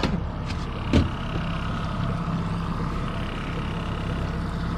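Boat motor running steadily at trolling speed, a low even drone. A short knock comes at the start, and a louder thump about a second in.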